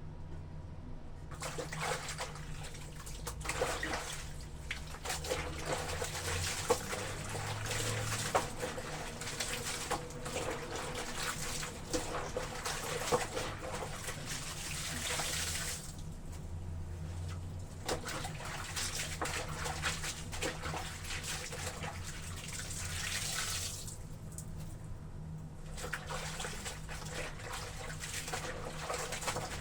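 Laundry being washed in a tub of water: water sloshing and splashing with many small splashes, easing off briefly twice.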